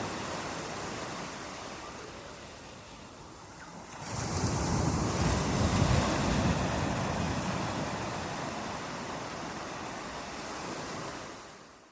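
Ocean waves washing ashore: a wave surges in about four seconds in and slowly ebbs away, and the sound fades out near the end.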